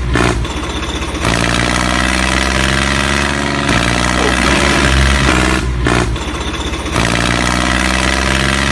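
Tractor diesel engine idling steadily, thinning out briefly twice.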